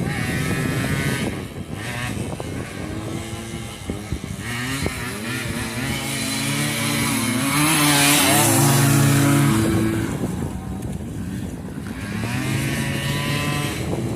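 Small dirt-bike engines, a Honda EZ90 Cub and a two-stroke Kawasaki KE100, revving hard in a race. The pitch repeatedly climbs and drops back as they shift gears. They are loudest about eight to ten seconds in, as the bikes come close.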